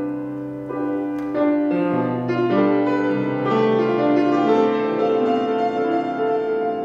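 Keyboard playing slow, held chords, with the notes changing every second or so.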